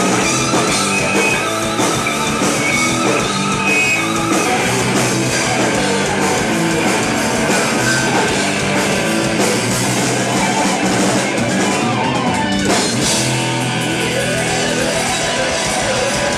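Live rock band playing loudly with electric guitar and drum kit, a dense, steady wall of sound with a sharp hit about three quarters of the way through.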